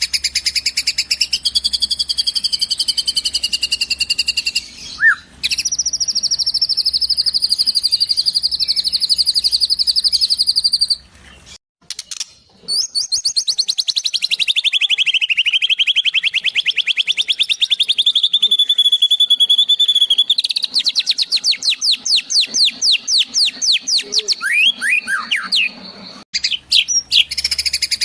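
White-rumped shama (murai batu) singing long runs of very rapid, high trills, its song filled with mimicked kingfisher and sparrow calls. The song breaks off abruptly twice, briefly a little before halfway and again near the end.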